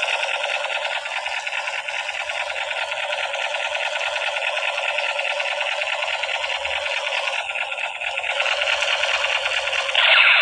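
Toy M60 machine gun sounding its battery-powered firing effect: a steady, rapid mechanical rattle, getting louder near the end.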